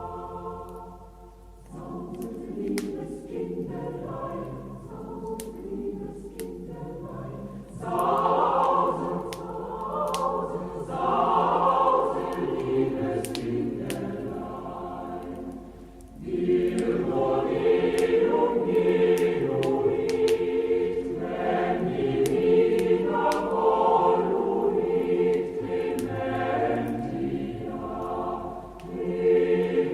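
A choir singing a Christmas carol, getting louder about halfway through, with faint crackling from a log fire.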